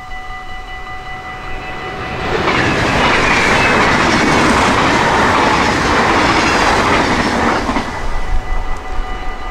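An NS double-deck electric passenger train passes at speed from about two seconds in, with a loud rush and clattering wheels, and is gone near the end. A steady ringing level-crossing warning bell sounds before it, is drowned out while it passes, and is heard again after it.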